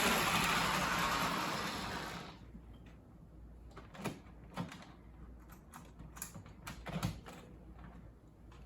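HO-scale Fleischmann steam locomotive running on the track, its motor and gears whirring, dying away about two seconds in. Then come a few scattered light clicks and knocks of handling.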